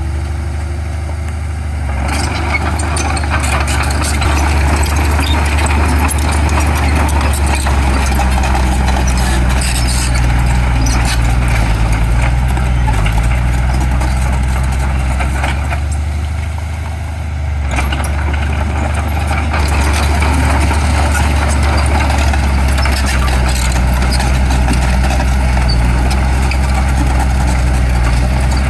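Heavy diesel engine of construction machinery running steadily, easing off briefly twice.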